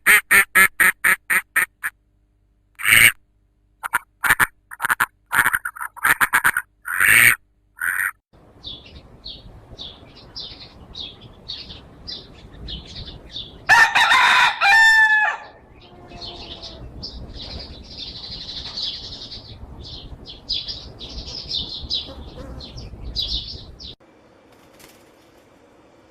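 Duck quacking in quick runs of short calls. Then a second recording takes over: steady high chirping from poultry, with a rooster crowing once loudly about halfway through.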